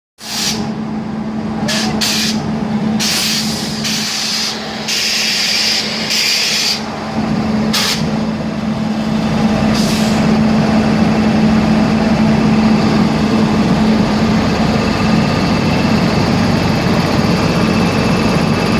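A steady engine hum with several short bursts of hiss over the first ten seconds, and a faint high tone near the end.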